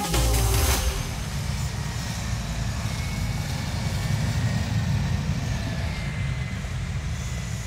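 Large farm tractor's engine running steadily as it works a slurry tanker, with a brief louder rush of noise in the first second.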